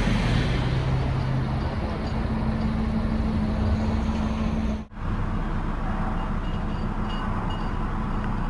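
2019 Audi RS Q3 Sportback's turbocharged 2.5-litre five-cylinder engine idling just after start-up, its revs settling down. The sound drops out for an instant about five seconds in.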